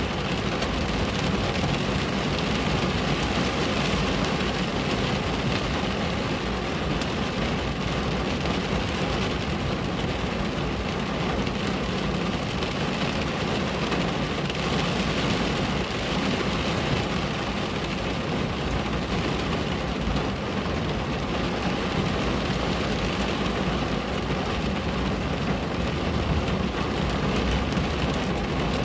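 Steady rain on a window: an even, unbroken hiss with a low rumble underneath.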